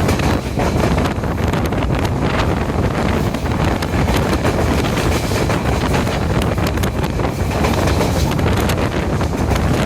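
Diesel multiple-unit express train running at speed, with a steady rush of wind over the microphone.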